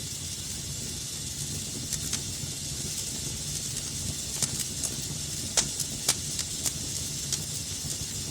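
Wood fire burning in a fireplace: a steady low rumble and hiss with scattered sharp crackles and pops, the loudest two close together a little past the middle.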